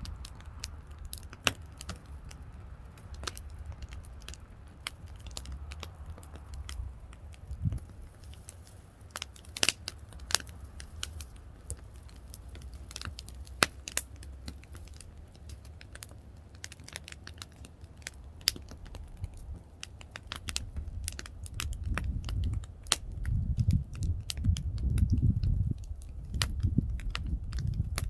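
Wood fire crackling, with sharp irregular pops from the burning logs over a low rumble that swells for a few seconds near the end.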